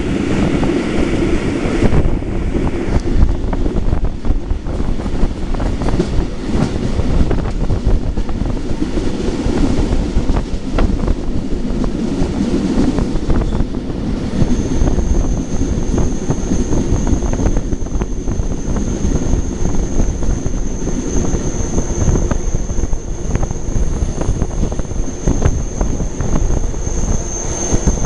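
Historic train of Centoporte coaches hauled by FS E 428 and E 636 electric locomotives running on the rails: a loud steady rumble with many short wheel clicks. About halfway through, a high steady wheel squeal sets in and holds.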